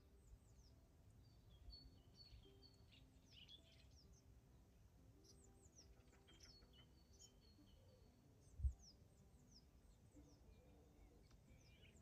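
Faint birdsong from several small birds: many short chirps and quick downward-sweeping whistles. Soft background music with sustained low notes lies underneath, and a single dull low thump comes about two-thirds of the way through.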